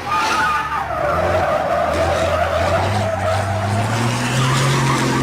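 A long, loud squeal from a heavy truck's wheels that starts suddenly, drops in pitch over the first second or two and then holds, over the truck's engine running with a low hum that rises a little in pitch near the end.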